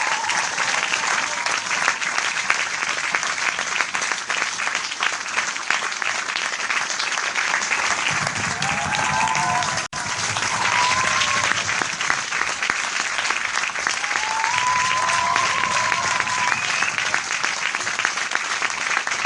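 Large crowd applauding steadily, dense clapping throughout, with a few short rising calls or whoops from the audience heard over it. The clapping drops out for an instant about halfway through.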